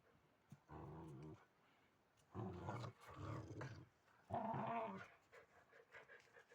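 Kangal dog growling in three drawn-out bouts, the middle one the longest.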